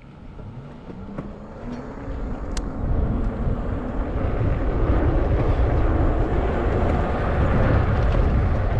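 Wind rushing over the microphone with low road rumble from a moving e-bike, building over the first three seconds as the bike picks up speed and then holding steady.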